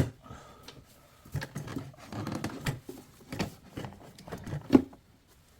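Hands working a plastic engine air-intake tube loose: a series of irregular clicks and knocks of plastic parts, the loudest near the end.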